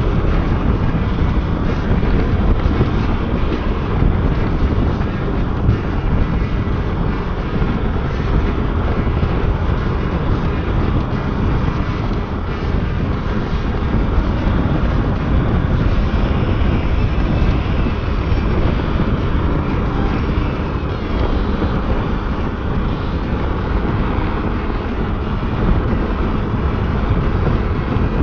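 A motorcycle under way: steady wind rushing over the microphone, mixed with its engine and road noise.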